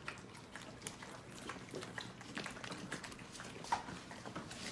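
A dog licking peanut butter off a spoon: irregular wet smacks and tongue clicks.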